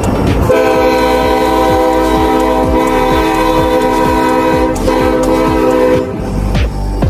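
Air horn of an SD70ACE diesel locomotive sounding one long blast of several notes together, dipping briefly near the end and cutting off about six seconds in.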